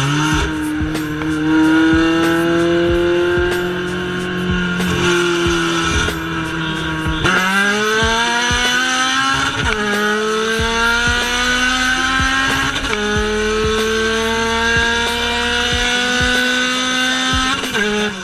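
Street-tuned K24A2-swapped Acura Integra's four-cylinder on E85 with an aftermarket header, heard from inside the cabin at high revs. About seven seconds in the revs jump and climb hard under full throttle, with upshifts at about ten and thirteen seconds in. Near the end the pitch falls away as the throttle closes.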